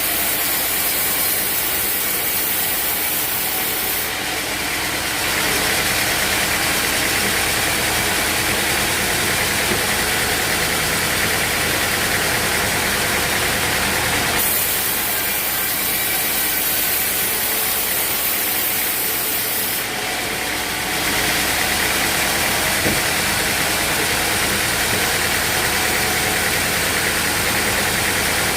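Sawmill machinery running steadily with an engine-like drone. A high hiss over it stops about four seconds in, comes back for about five seconds in the middle, and returns near the end.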